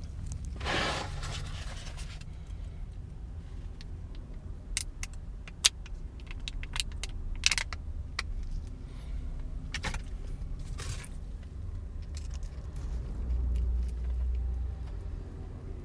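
Handling noises inside a car cabin: a short crinkling rustle about a second in, then scattered sharp clicks and ticks, over a steady low rumble.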